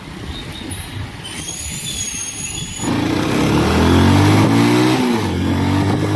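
Wind and road noise on a moving motorcycle. About three seconds in, the Bajaj Pulsar 220's single-cylinder engine is heard accelerating: its pitch climbs, drops back about five seconds in, then holds steady.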